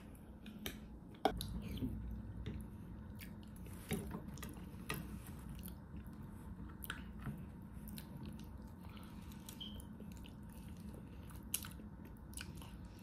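A person chewing and eating food at close range: mouth clicks and smacks scattered throughout, with a sharp knock about a second in.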